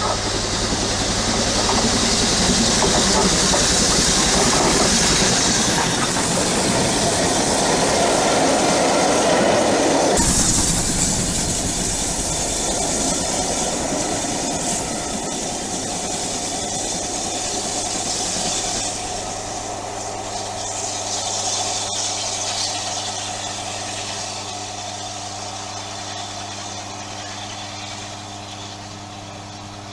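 A train passing close by on the line, rumbling with wheels clacking; about ten seconds in it cuts abruptly to another passing train that slowly fades away.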